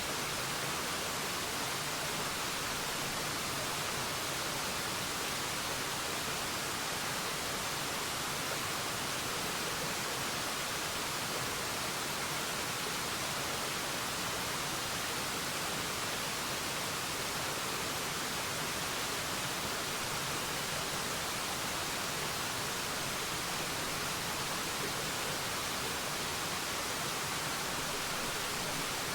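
Forest waterfall: a steady, unbroken rush of falling water, hiss-like, with most of its energy in the upper range and little low rumble.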